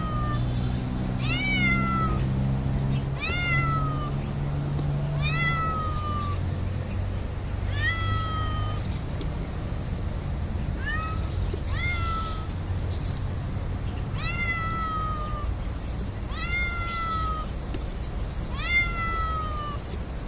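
A cat meowing over and over, about ten high meows roughly every two seconds, each rising and then falling in pitch.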